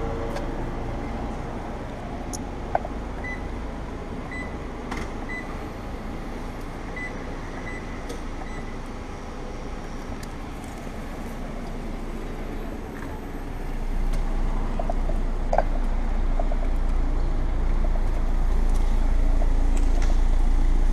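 Christ Varius automatic car wash machine running its brushless program, a steady mechanical noise with a series of short high electronic beeps in the first several seconds. The noise grows louder about two-thirds of the way through.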